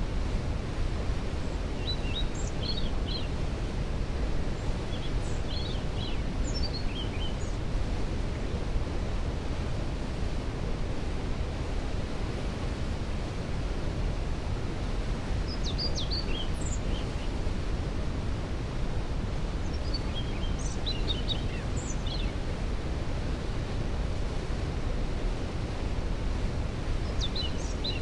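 Waterfall rushing steadily, with a songbird singing short high twittering phrases five times over it.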